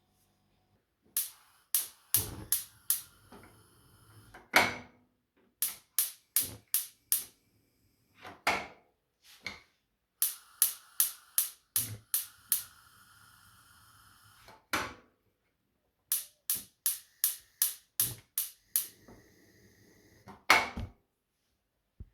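Runs of sharp clicks and knocks, about three a second, with short silent pauses between the runs.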